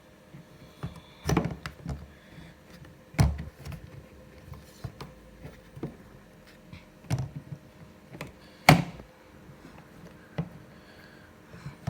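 Beko DLTP81151W tumble dryer running, a steady hum with irregular thuds and knocks from its load tumbling in the drum, loudest about one, three and nine seconds in.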